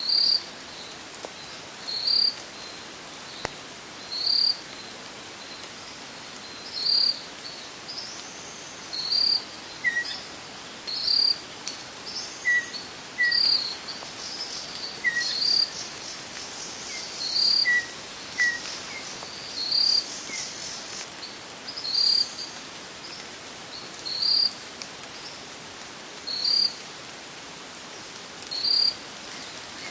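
An insect chirping in short, loud, high-pitched bursts every two seconds or so in wet rainforest. A bird calls with a few short chirps midway, over a steady hiss from the running creeks.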